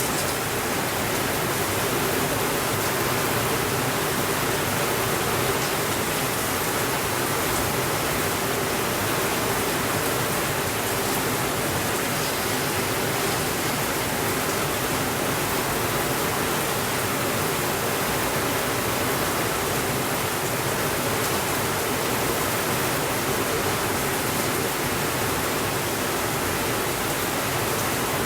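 Rain falling steadily, an even hiss with no single drops, thunder or changes in level standing out.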